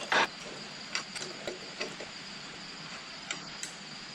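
Irregular metallic clicks and clinks of a hand wrench working the carburetor fasteners on a small engine. The loudest clink comes just after the start, followed by lighter, unevenly spaced ticks.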